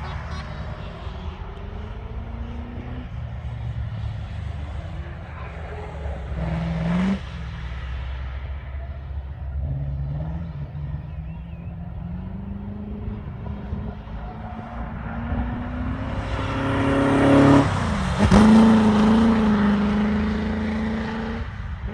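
Cars lapping a race circuit, their engines running steadily. One car goes by about seven seconds in, and a louder one passes near the end, its engine note dropping sharply as it goes by.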